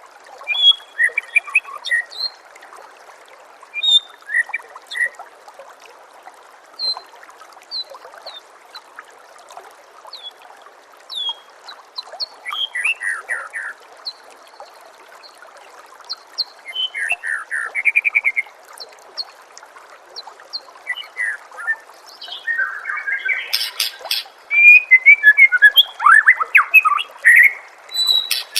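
White-rumped shama (murai batu) song: short whistles, chirps and quick trills with pauses between phrases, over a steady trickle of flowing water. Near the end the singing turns into a dense, loud run of fast trills and harsh notes.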